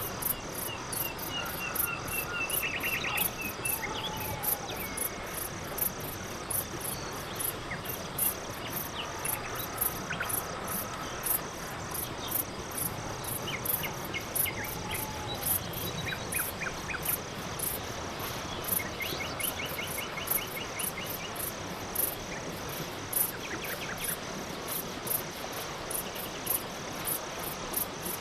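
Crickets chirping steadily: a constant high trill with rhythmic high pulses about two to three times a second. Fainter short chirps and trills come and go in the background.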